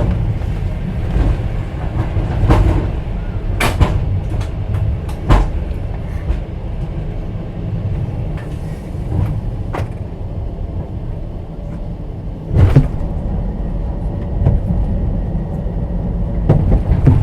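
Steady low rumble inside a moving passenger train's open-plan sleeping car, broken by sharp knocks and rattles at irregular intervals, a few of them loud.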